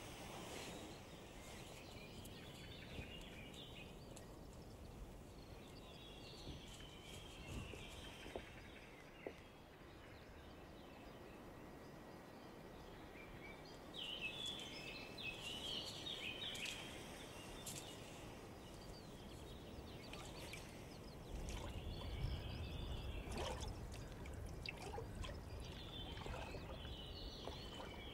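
Faint outdoor ambience with birds chirping on and off in short bursts of song. A low rumble comes in about two-thirds of the way through.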